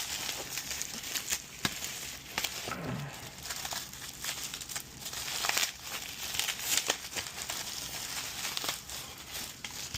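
Packaging material being handled and unwrapped from around a control board: irregular crinkling and crackling with short sharp rustles throughout.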